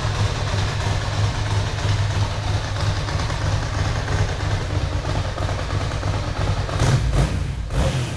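Ducati Monster 1000 S i.e.'s air-cooled L-twin idling steadily through a Termignoni aftermarket muffler.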